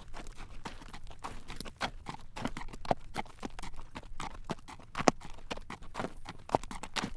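Horse's shod hooves clip-clopping on a paved road at a walk while it draws a carriage, with a low rolling rumble beneath the hoof strikes.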